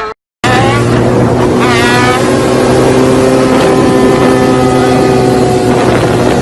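Loud engine running at steady high revs, starting abruptly after a moment of silence, with a brief rise in pitch about a second and a half in.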